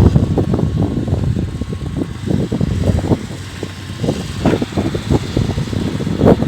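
Komatsu PC130 hydraulic excavator running as it works, a continuous low machine noise broken by many irregular short knocks.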